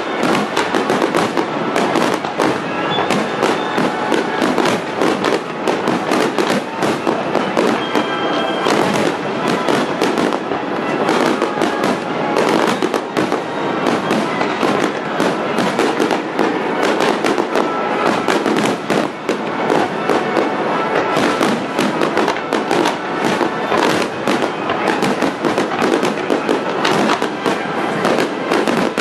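Aerial fireworks shells bursting in a dense, continuous barrage, several loud bangs a second.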